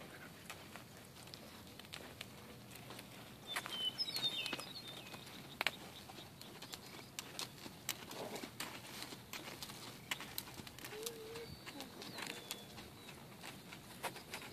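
Birds calling outdoors: a brief high chirping call about four seconds in and a short, low wavering call later on. Scattered light clicks and knocks run under them.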